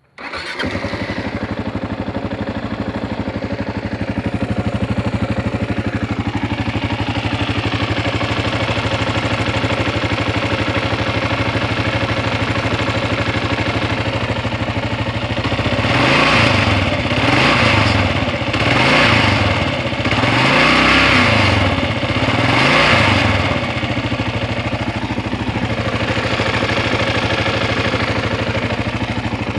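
Kawasaki KLR650 single-cylinder engine idling, revved briefly five times about halfway through, then settling back to idle. It carries the vibration noise that the owner finds weird and is asking about.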